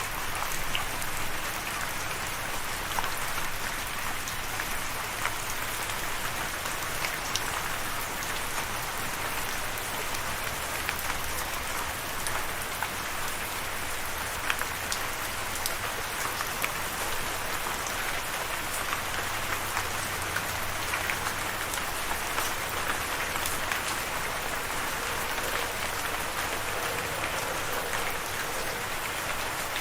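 Steady rain falling on a surface, an even hiss with many scattered sharp drop ticks throughout.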